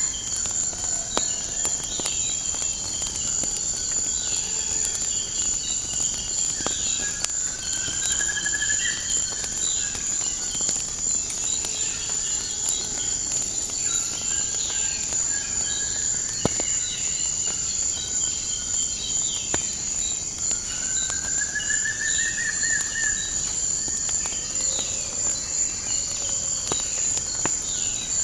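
Steady high-pitched cricket chorus with birds chirping throughout, and scattered sharp crackles of a wood fire. A longer rising call sounds twice, about eight seconds in and again past the twenty-second mark.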